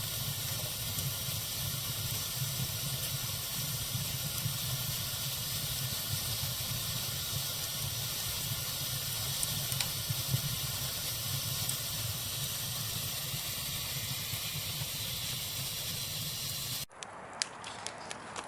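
Fireplace fire burning with a steady hiss and a few faint pops. About 17 seconds in it changes abruptly to a quieter fire with sharp wood crackles.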